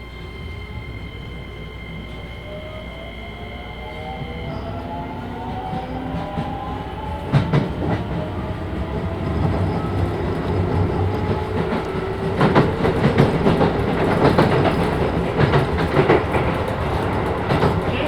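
Keisei 3000 series electric train with Toyo IGBT-VVVF inverter drive pulling away: steady high tones stop about four seconds in, then the motor and inverter whine rises in pitch as the train accelerates. Running noise grows louder, with wheels clacking over rail joints from about halfway through.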